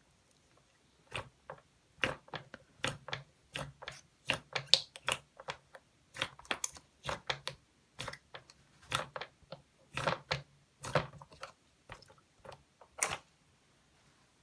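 Irregular crisp crunching, several sharp crunches a second in uneven clusters.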